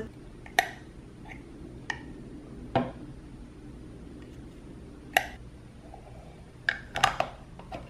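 Hard clear plastic pieces of a toy toilet candy kit being handled and snapped together: a handful of sharp plastic clicks and taps, with a quick cluster of them near the end.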